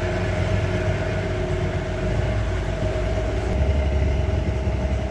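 Boat engine running steadily, a constant low drone with a steady whine above it.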